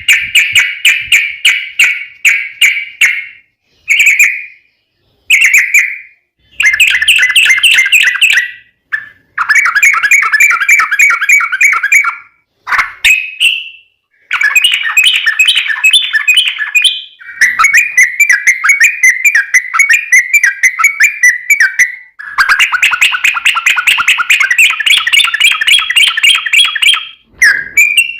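Yellow-vented bulbul (trucukan) singing long rapid chattering trills, phrase after phrase with short breaks between them.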